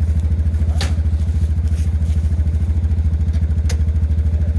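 Yamaha Rhino 700 side-by-side's single-cylinder engine running steadily while towing a log on a skidding arch. Two sharp knocks cut through it, one about a second in and one near the end.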